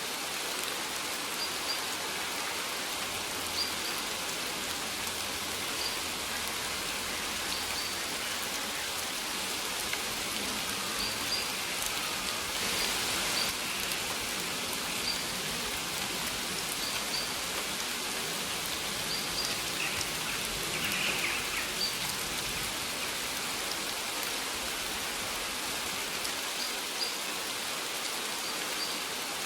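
Steady rain falling and pattering on surfaces, an even hiss, with faint short high chirps recurring every second or two.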